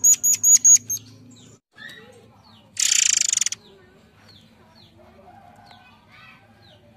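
Forktail (murai air) calling: a quick run of about five sharp, piercing high notes in the first second. About three seconds in comes a loud harsh rasping buzz lasting under a second, with faint scattered chirps around it.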